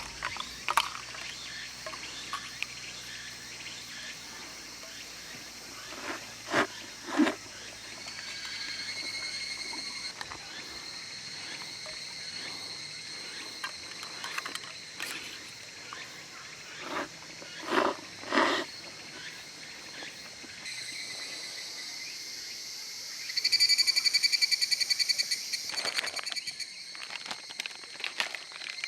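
Higurashi evening cicadas calling over a faint steady insect chorus. A brief call comes about eight seconds in, and a loud ringing call pulsing rapidly lasts about two and a half seconds near the end. A few short thumps or rustles come around six to seven and seventeen to eighteen seconds in.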